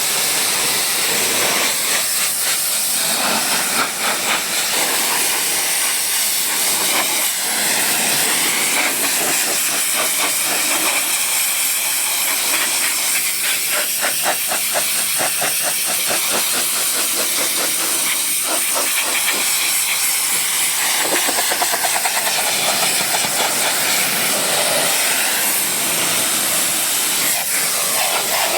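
High-pressure water spray hitting a vehicle: a loud, steady hiss whose tone shifts slowly as the jet moves over the surface.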